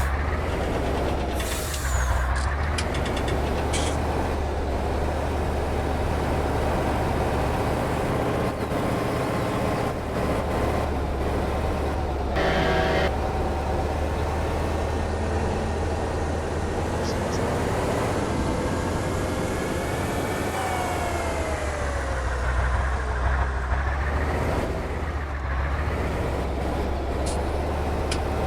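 Heavy diesel trial truck's engine running loud and low, revving up and falling back around the middle, with a sharp air-brake hiss early on and a short pitched tone near the middle.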